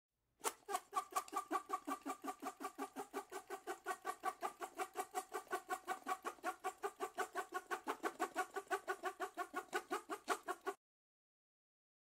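A bird calling in a long, very even run of short pitched notes, about seven a second, that stops abruptly about a second before the end.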